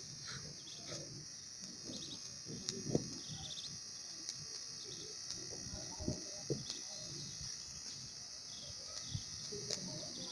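Outdoor ambience: a steady high-pitched insect drone with birds chirping now and then. A few sharp cracks stand out, the loudest about three seconds in, over a low irregular rustling.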